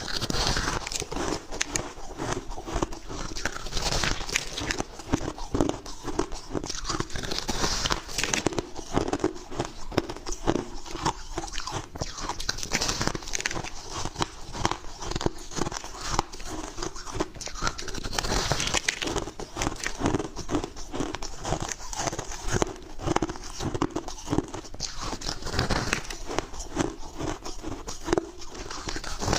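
Repeated close-up bites into soft, chunky freezer-frost ice: dense crunching and crackling with many small sharp cracks, going on without a break.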